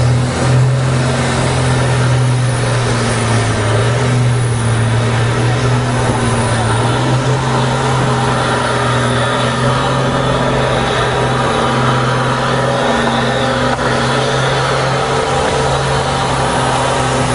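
ERF race truck's diesel engine held at steady high revs through a long burnout, one loud unbroken drone.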